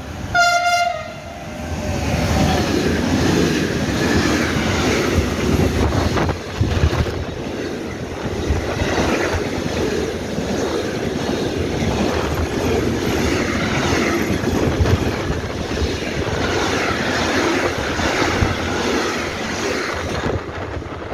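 Freight locomotive sounding one short horn blast, then a long container freight train passing close by at speed, its wheels clattering rhythmically over the rail joints for well over a quarter of a minute.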